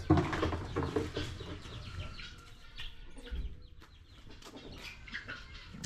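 Chickens clucking faintly, with a few light clicks and rustles.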